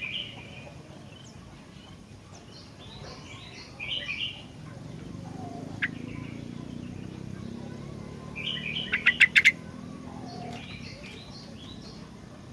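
Sooty-headed bulbul (kutilang) singing short, bubbly whistled phrases every few seconds, with a quick run of sharp notes about nine seconds in. A faint low rumble sits under the middle of the song.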